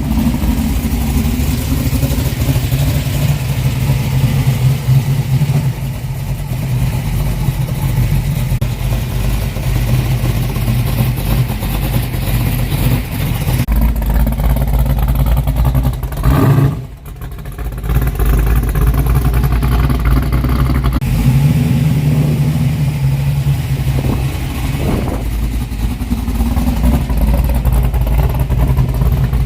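Ford sports car's engine running with a steady, deep note, dipping sharply for a moment about seventeen seconds in.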